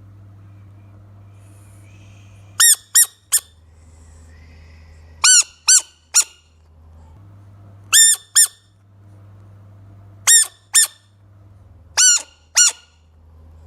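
A frog squeaking: short, high-pitched squeaks in groups of two or three, repeated every two to three seconds, over a steady low hum.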